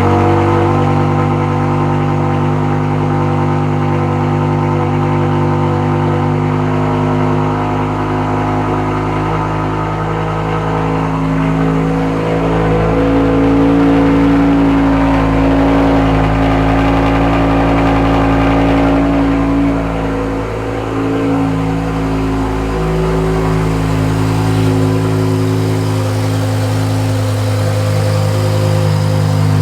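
BMW S85 5.0-litre V10 engine in an E63 M6 running steadily just after starting. Its note rises slightly through the middle and settles back. It is running smoothly, the cylinder 8 misfire cured by new ignition coils and spark plugs.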